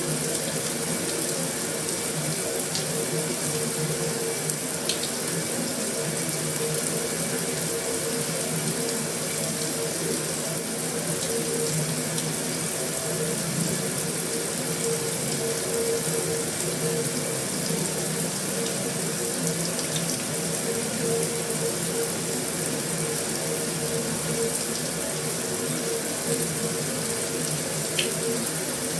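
Heavy rain falling steadily on a metal roof: a dense, even hiss of drops, with now and then a sharper single tick.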